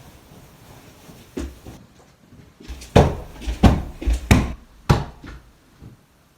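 A series of household knocks and thumps: one about a second and a half in, then four in quick succession from about three to five seconds in, like doors or objects being handled.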